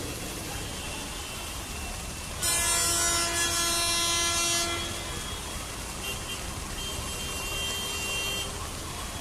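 Vehicle horns honking in rain-soaked traffic: one loud horn held for about two seconds, then a second, fainter horn a little later, over a steady hiss of traffic and rain.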